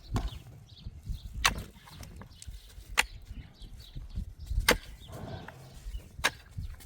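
Wood being chopped with an axe: five sharp, evenly paced strikes about a second and a half apart.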